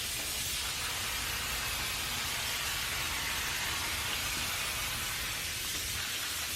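Aerosol can of brake cleaner spraying in one long, steady hiss, degreasing an engine block before paint.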